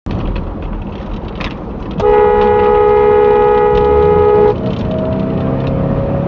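Car horn held in one steady blast of about two and a half seconds, starting about two seconds in, over the rumble of road and engine noise.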